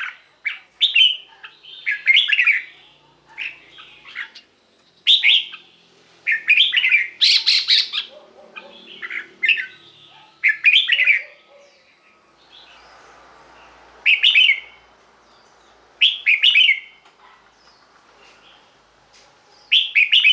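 Red-whiskered bulbul singing: short, bright warbled phrases repeated every second or two, with a pause of about two seconds a little past the middle.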